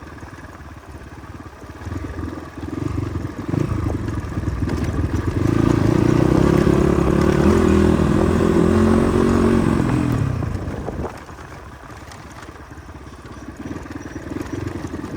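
Motorcycle engine running under load on a rough trail. It grows louder about two seconds in, pulls hardest for a few seconds, then eases off near ten seconds.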